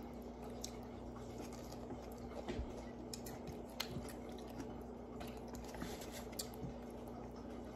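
A person chewing a mouthful of raw vegetables with the mouth closed: faint, scattered small clicks and wet smacks over a steady low hum.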